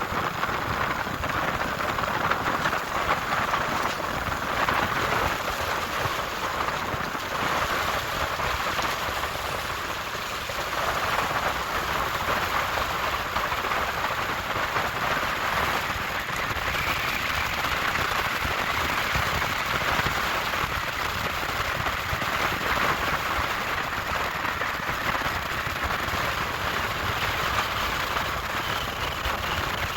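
Steady rushing noise of riding a bicycle: wind on the microphone and tyres rolling along the trail.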